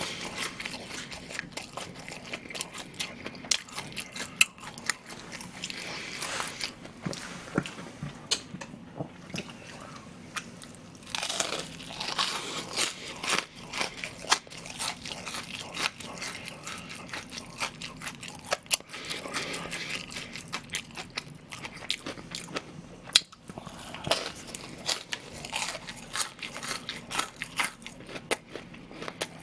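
Crisp breaded deep-fried pork cutlet (donkatsu) being bitten and chewed: many irregular sharp crunches and crackles of the breading.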